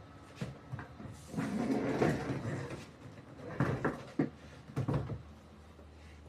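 Knocks and plastic clattering from handling a Sharp twin-tub washing machine's parts, about half a dozen separate knocks with a busier stretch of rattling in the middle. A low steady hum sets in near the end.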